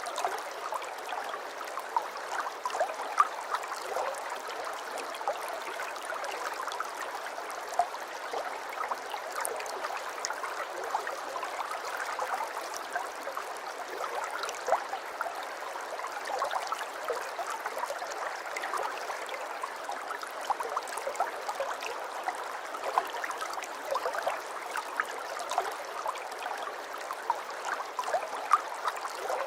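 Aquarium water trickling and bubbling steadily, with many small pops and splashes scattered throughout.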